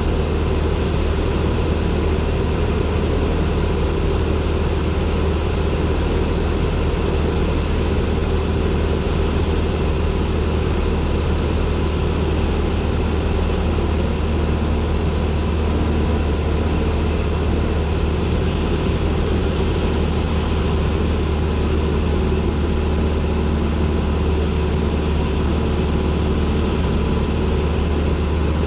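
Cessna 172N's four-cylinder Lycoming engine and propeller running at a steady cruise setting, a constant low drone heard from inside the cockpit.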